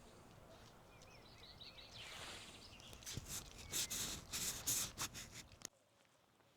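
A small bird chirps a few short notes. After that comes a rapid run of loud crackling rustles, roughly four or five a second, which cuts off abruptly.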